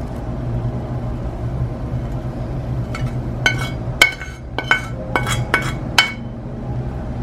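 Kitchenware clinking: a quick run of about eight light, ringing clinks of glass or china knocking together, over a steady low hum.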